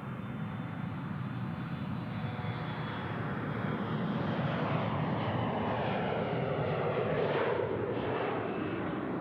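A jet airliner's engines pass close by, the rushing noise swelling to its loudest late on. Over it, several whines fall in pitch as the aircraft goes past.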